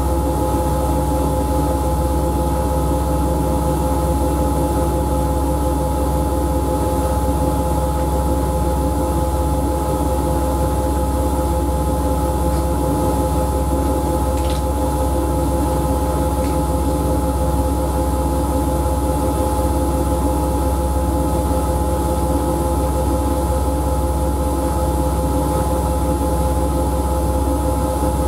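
Siemens Siwamat IQ washing machine running steadily: a constant low motor hum with a steady whine over it, unchanging throughout.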